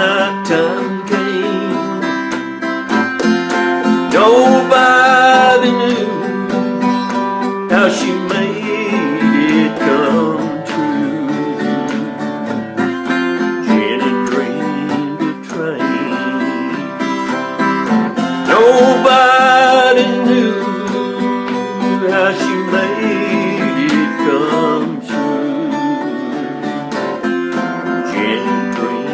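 Acoustic guitar playing an instrumental passage of the song in C, with a melody line of bent, sliding notes over steady chords.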